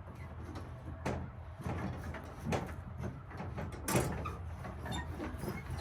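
Tractor engine running steadily, with a few sharp knocks and clatters about one, two and a half and four seconds in, the last the loudest.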